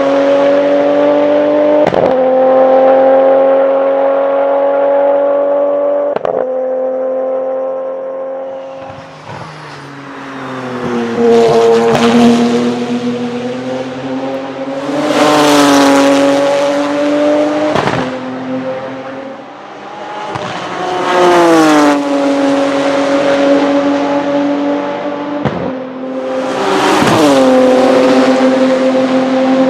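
Porsche 997 GT2 RSR's 3.9-litre twin-turbo flat-six pulling hard, its note climbing through quick sequential-gearbox upshifts, each a sharp brief cut. Several times the throttle lifts and the note falls away, with loud rushing bursts of turbo and blow-off-valve noise.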